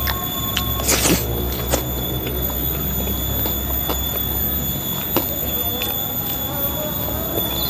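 A person eating with mouth sounds and chewing, with a few sharp crunches, the loudest about a second in, over a steady high-pitched whine.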